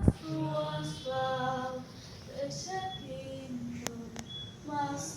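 A woman's singing voice holding long, wordless notes in a slow melody. A sharp thump sounds right at the start, and two short clicks come just before four seconds in.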